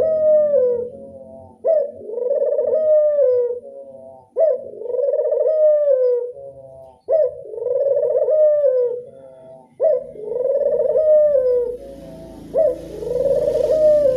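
Barbary dove (burung puter) cooing its classic song: a short sharp note followed by a long rolling coo, repeated steadily about every two and a half to three seconds, five times.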